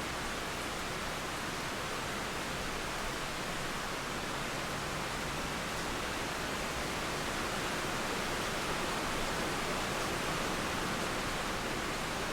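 Steady rain mixed with flowing river water: an even, unbroken hiss with no thunder or other separate sounds.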